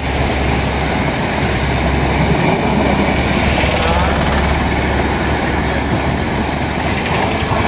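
Passenger train running past at speed: a loud, steady rumble of wheels on the rails.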